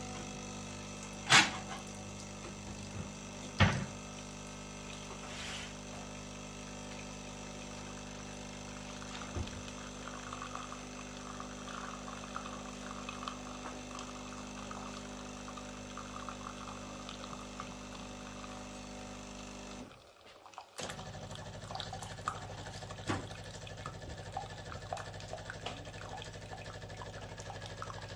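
Espresso machine's pump running steadily while liquid trickles and pours, with two sharp clicks in the first few seconds. The sound breaks off briefly about twenty seconds in, then carries on.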